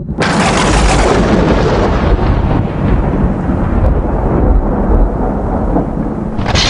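A loud clap of thunder that rumbles on while its crackle slowly dies away, then a second sharp crack of thunder near the end.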